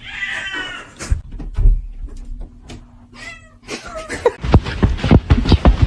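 Kitten meowing: a high call at the start and another about three seconds in, followed by a quick run of knocks near the end.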